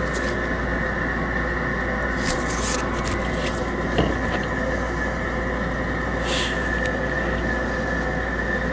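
Steady background hum and hiss, with a few faint clicks and rustles from handling a trading card and its plastic sleeve.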